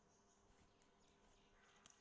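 Near silence: faint room tone with a low steady hum and a couple of small faint clicks near the end.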